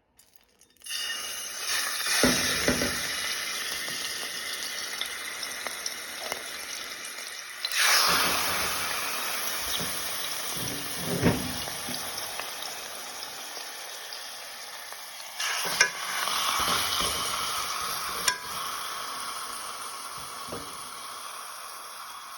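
Seasoned chicken pieces sizzling as they are laid into a hot, lightly oiled stovetop pot. The sizzle starts about a second in, flares up again each time another piece goes in (around 2, 8 and 15 seconds), and slowly dies down between. A few sharp clinks can be heard.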